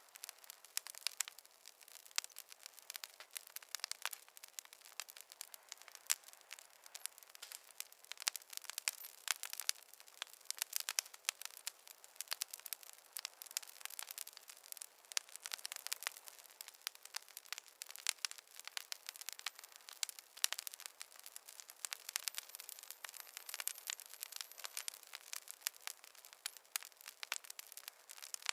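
Wood fire crackling: a dense, irregular run of small sharp pops and snaps over a faint hiss, with no low roar beneath.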